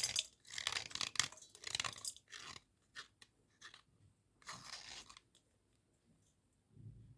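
Dry cubical slate pencils crunching and scraping in quick gritty strokes, bunched closely for the first two and a half seconds, then sparser. One longer scrape comes about four and a half seconds in, and a low dull thud near the end.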